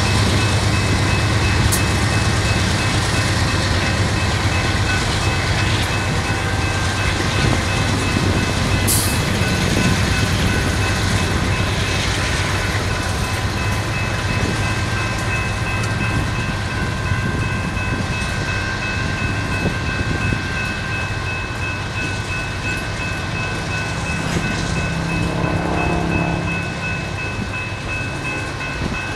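Freight train rolling past: the diesel engine rumble of the trailing GE AC4400CW locomotive fades over the first several seconds, leaving the steady rolling and clatter of tank cars and covered hoppers on the rails.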